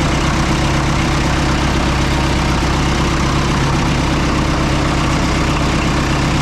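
Oliver 66 tractor's four-cylinder diesel engine idling steadily.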